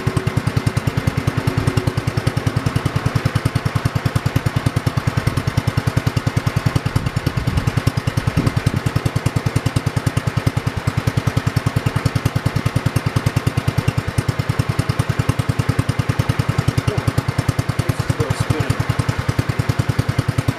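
1968 John Deere 110 lawn tractor's single-cylinder Kohler engine running steadily, with an even, rapid beat of firing pulses.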